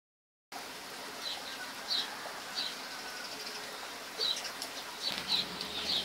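A bird calling with short, high chirps, repeated about every second.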